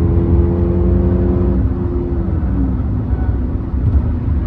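Car engine and exhaust droning at steady revs, then dropping in pitch about two seconds in as the throttle eases off, leaving a rougher, lower drone.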